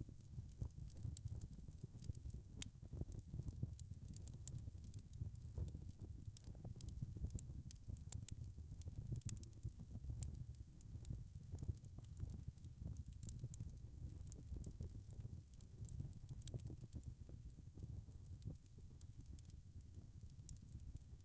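Wood fire crackling: frequent small pops and snaps over a steady low rumble of the burning logs.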